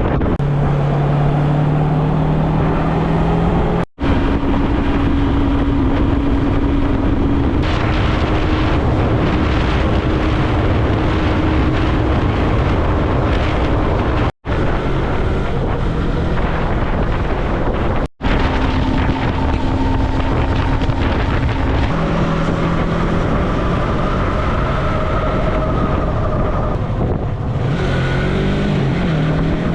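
Yamaha MT-03 motorcycle engine running at steady cruising speed, with wind rushing over the microphone. The engine note holds one pitch for several seconds at a time, then sits at a different pitch after the sound drops out for an instant, three times.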